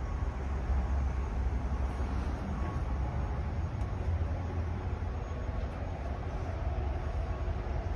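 Diesel engine of a 2020 Kenworth water truck running with a steady low rumble.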